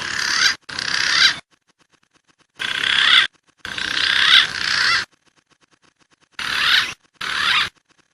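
Wild pigeon lure calls played back from a recording: six short bursts of warbling, whistling calls with gliding pitch, each cut off abruptly.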